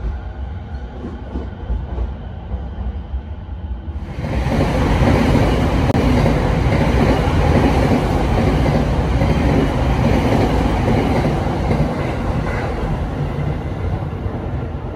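Tokyo Waterfront Area Rapid Transit 70-000 series electric commuter train running along a station platform, its wheels clattering on the rails. The noise grows sharply louder about four seconds in and eases off near the end.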